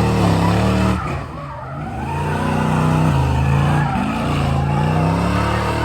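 Car engine revving hard, its pitch dropping and climbing again every couple of seconds, with tyres squealing as the car spins.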